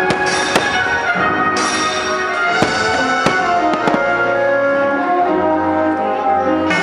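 Orchestral music with brass, with sharp pops of firework shells bursting over it: two near the start, then several more between about two and a half and four seconds in, the last two in quick succession.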